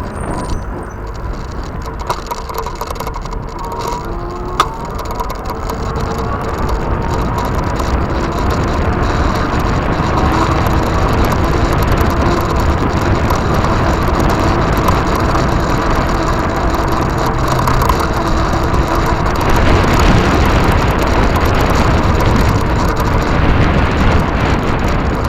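Wind rushing over the microphone and tyre rumble from an e-bike on the move, getting louder about a third of the way in, with a faint steady whine underneath and one sharp click near the start.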